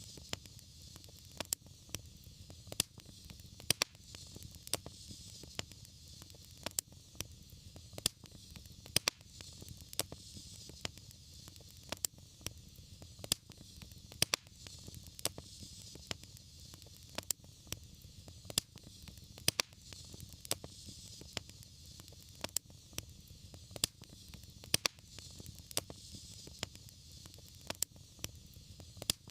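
Wood fire burning steadily, with irregular sharp pops and crackles over a soft hiss.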